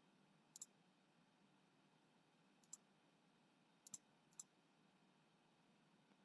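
Faint computer mouse clicks, single and double, in four short groups spread over a few seconds, with near silence between them.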